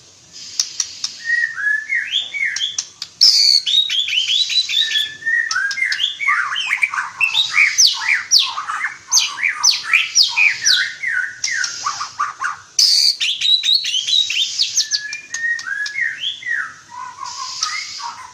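White-rumped shama (murai batu) singing a loud, varied song of quick whistled phrases and rapid downward-sweeping notes, with a few sharp clicks mixed in.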